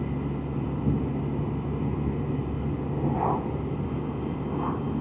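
Can-Am Spyder three-wheeler's engine running at a steady cruising hum, with steady wind and road noise from riding.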